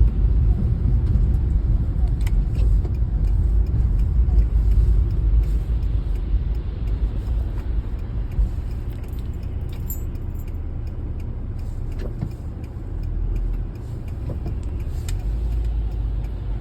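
Steady low rumble of a car on the move, with small clicks and rattles over it. The rumble eases a little about halfway through.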